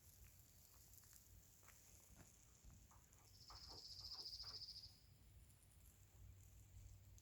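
Faint outdoor quiet with scattered soft ticks and taps, and one high, rapid animal trill lasting about a second and a half near the middle.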